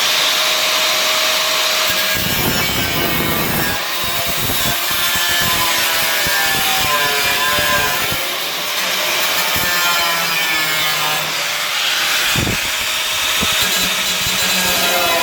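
A power tool cutting through a steel car floor panel, running continuously with a whine that wavers up and down in pitch as the cut loads it.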